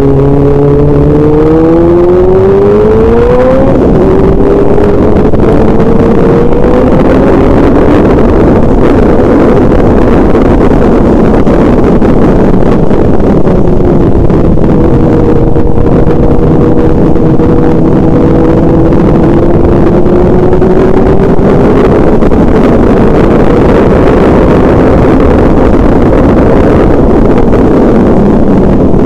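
A vehicle engine running under way, its note climbing over the first few seconds as it speeds up, then holding fairly steady with slow rises and dips, over a loud rushing noise.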